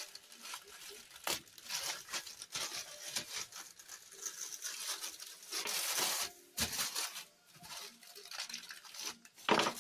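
A delivery package being opened by hand: packaging tearing, crinkling and rustling, with scattered clicks and a couple of louder tearing bursts.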